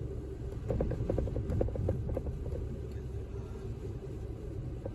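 Steady low rumble of a car driving on a snowy street, heard from inside the cabin. A quick run of short ticks, several a second, comes in about a second in and fades out before the halfway point.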